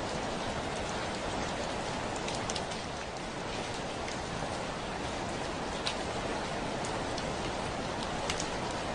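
Steady rain falling, with individual drops ticking now and then against window glass, the loudest about six seconds in and near the end.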